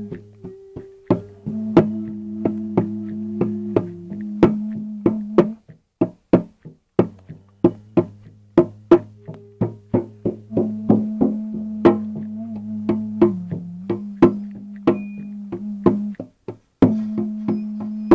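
Live instrumental music: a sustained droning instrument holding low notes that shift in pitch now and then, over sharp percussive strikes about three a second. The drone breaks off briefly twice.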